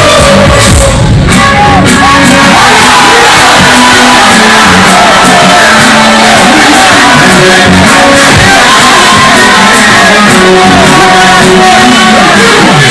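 Very loud live music with a crowd singing along and shouting.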